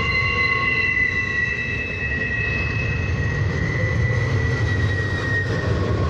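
Double-stack intermodal freight cars rolling past on steel rails: a steady low rumble with a high, whining metal squeal from the wheels that drifts slightly lower and partly fades toward the end.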